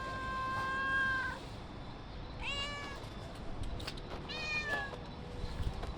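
A cat meowing three times: a long, level meow that ends about a second and a half in, then two shorter meows about two seconds apart.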